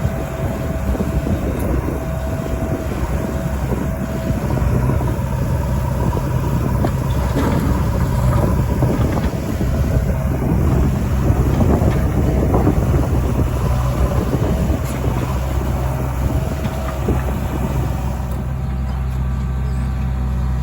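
Diesel engine of a JCB 3DX backhoe loader running steadily as it digs and loads mud, with irregular scraping and knocking from the bucket and soil over the steady low engine note.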